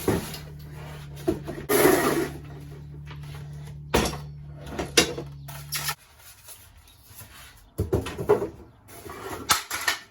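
Unboxing noises: cardboard and packaging rustling, loudest about two seconds in, with several sharp knocks of parts being handled. A steady low hum underneath stops suddenly about six seconds in.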